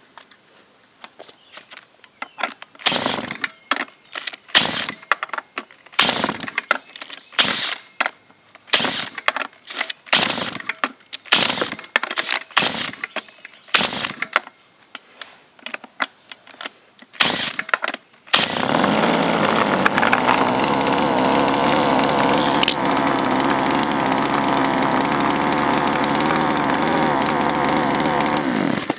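Poulan Wild Thing chainsaw's two-stroke engine firing in a string of short bursts, roughly one a second, as it is cranked and throttled. About 18 seconds in it catches and runs continuously at high speed with the throttle pinned, the only way it will stay running.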